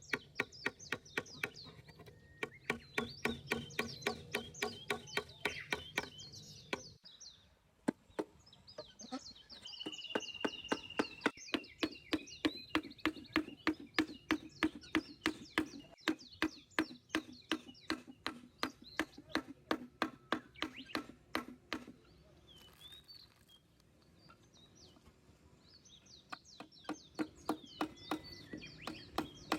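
Birds chirping over a steady series of sharp knocks, about three a second, which pause briefly around a quarter of the way in and again for a few seconds near the end.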